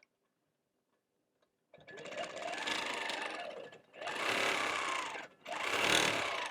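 Longarm quilting machine stitching in three short runs with brief stops between them, starting about a second and a half in after near silence.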